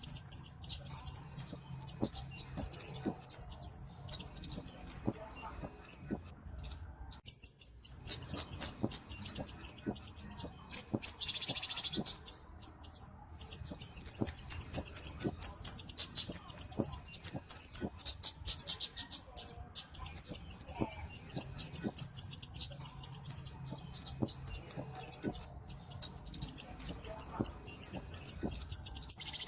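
Cabe-cabean (flowerpecker) calling: long runs of rapid, very high, thin chips and trills, broken by short pauses of a second or two.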